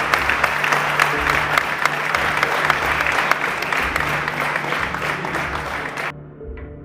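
A crowd applauding, with many hands clapping over background music. The applause cuts off suddenly near the end, leaving only the music.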